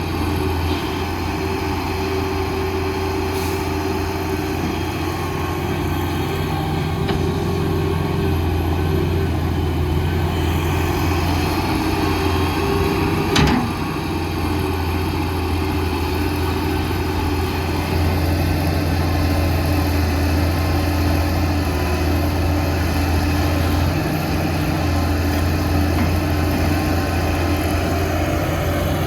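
Heavy diesel engine of construction machinery running steadily at a low hum, with a single sharp knock about halfway through.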